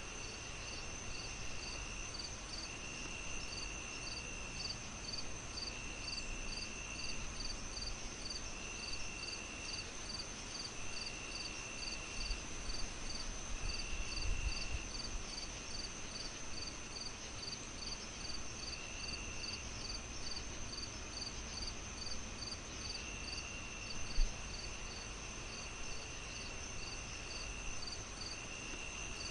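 Crickets chirping in layers: a steady high trill, a rhythmic chirp a little under twice a second, and a lower trill that comes in roughly one-second bursts every couple of seconds. A low rumble runs underneath, with a single thump late on.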